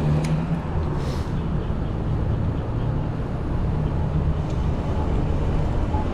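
Steady street-traffic noise, with vehicle engines running along a city street and a low continuous rumble.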